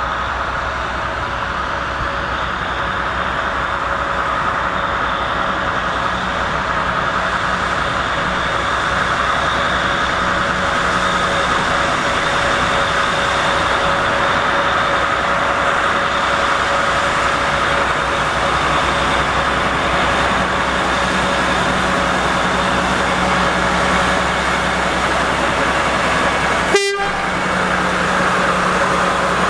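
Railway locomotive running steadily, a continuous hiss with a steady hum and a few held tones. There is a brief click and dropout about 27 seconds in.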